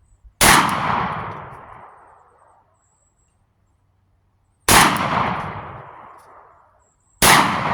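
A 12-gauge shotgun fired three times: once about half a second in, again about four seconds later, and a third time near the end. Each loud report echoes and dies away over about two seconds.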